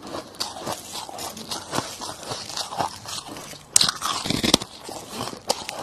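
Close-miked crunching of soft frost and crushed ice being bitten and chewed: a steady crackle of small crunches, with a loud burst of sharp bites a little under four seconds in.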